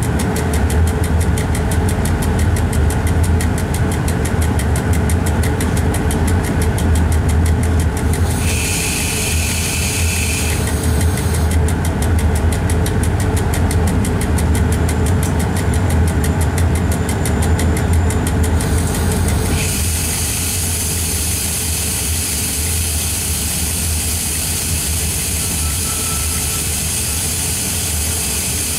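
Steady low hum and rumble inside a train's driver's cab while the train is moving. A short hiss with a high whistling tone comes about nine seconds in, and a broader hiss starts about two thirds of the way through and carries on.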